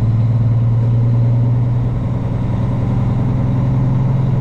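Semi truck's diesel engine running at a steady low drone while the truck is being driven.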